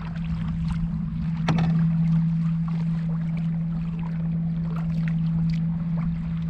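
Canoe on choppy water, with wind rumbling on the microphone, paddle strokes splashing and dripping now and then, and a steady low hum throughout.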